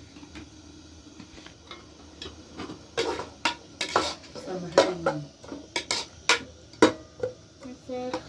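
A run of irregular sharp knocks and clinks of hard objects being handled, sparse at first and growing louder and more frequent about three seconds in.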